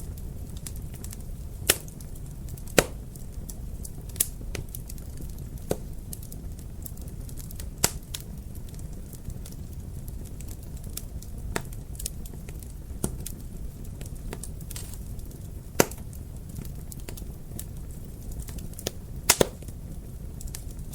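Wood fire in a fireplace crackling, with sharp irregular pops over a low steady rumble, including a quick double pop near the end.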